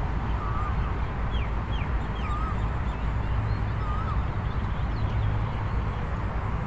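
Birds calling over a steady low rumble: one short wavering call repeats every second and a half or so, and three quick, high, falling chirps come about a second and a half in.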